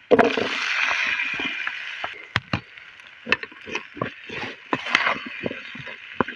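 Pan of frying potatoes and onions sizzling: a loud burst of sizzle at the start that eases after about two seconds. It is followed by a spoon stirring, clicking and scraping against the pan while the food goes on sizzling.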